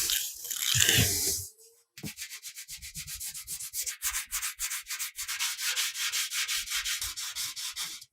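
Hand sanding in quick, even back-and-forth strokes, about six a second, after a short pause near the start.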